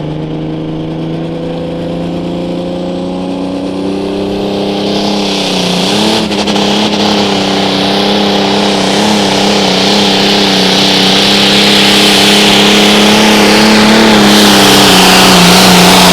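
Competition pulling vehicle's engine at full throttle during a pull, dragging the weight-transfer sled down the track. Its pitch climbs over the first few seconds, then holds with small wobbles while it grows steadily louder as it comes on.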